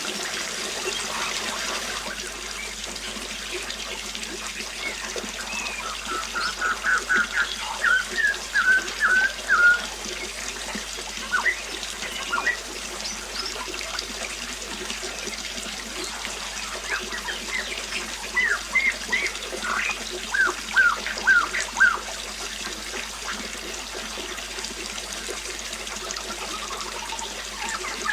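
Steady trickling water, with a bird singing two phrases of quick repeated chirping notes, the first about six seconds in and the second about seventeen seconds in.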